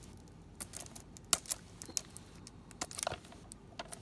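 A sealed plastic DVD case being handled, with scattered light clicks and crinkles as fingers pick at its shrink-wrap.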